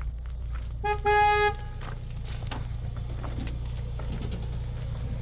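A vehicle horn gives one short toot about a second in, over the steady low hum of an idling engine.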